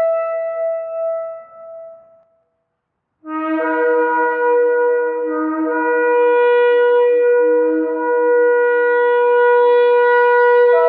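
Shofar (ram's horn) blasts: a long held note fades out about two seconds in, and after a short silence a new long, steady blast starts about three seconds in.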